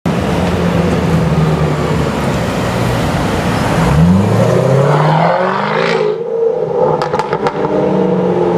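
Range Rover Sport SVR's supercharged V8, through an Overfinch titanium exhaust, running steadily, then revving hard about four seconds in with a rising note. After the lift-off it lets out a quick run of crackles and pops near seven seconds, then settles back to a steady note.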